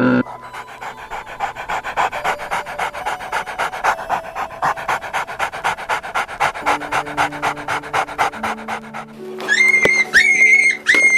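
A dog panting quickly and evenly, about five breaths a second, over background music. Near the end it gives way to a run of high-pitched squeaking calls, louder than the panting.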